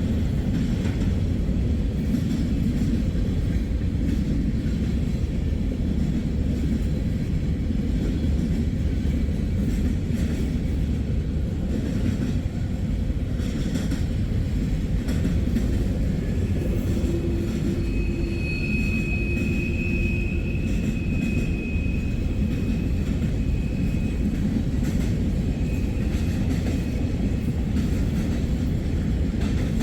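Freight train rolling past in a steady low rumble, with the rails clicking under its wheels. A high steady wheel squeal comes in about two-thirds of the way through and lasts several seconds.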